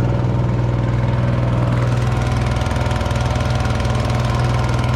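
Small boat's engine running steadily at an even pitch, under way on a test run.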